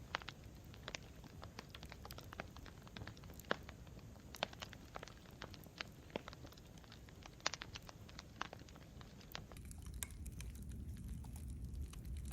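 Campfire crackling: burning wood pops and snaps irregularly, several times a second, over a low rumble of flame. About three-quarters of the way through the pops thin out and the low rumble grows louder.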